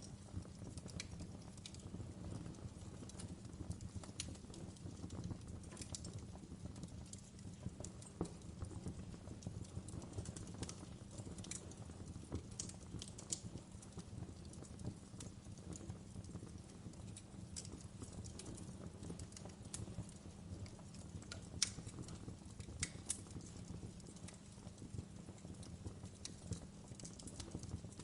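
Wood fire burning, a steady low rumble of the flames with irregular sharp crackles and pops of burning wood scattered throughout. Two louder snaps stand out about three quarters of the way in.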